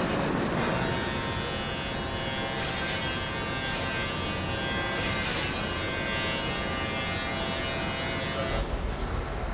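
Electric hair clippers buzzing steadily during a haircut, cutting off near the end.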